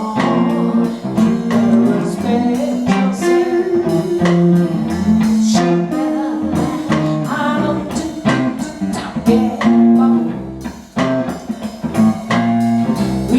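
Blues band playing, a guitar-led passage with plucked notes.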